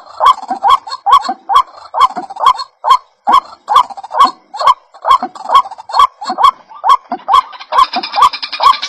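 White-breasted waterhen (ruak-ruak) calling: a loud, steady run of short croaking notes, about two and a half a second, each with a sharp clicky start. Near the end a higher, faster chatter joins in. This is a lure call used to attract the birds.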